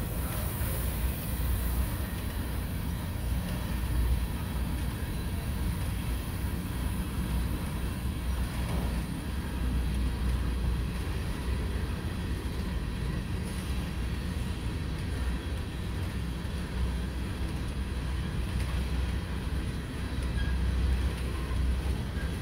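Empty coal hopper cars of a freight train rolling past, a steady low rumble of steel wheels on rail.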